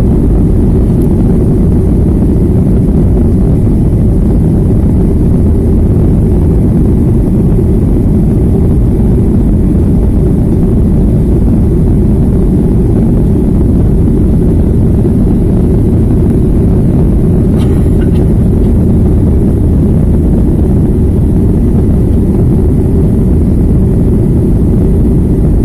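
Jet airliner's engines and airflow heard from inside the cabin: a loud, steady low drone during the climb after takeoff. A faint click comes about two-thirds of the way through.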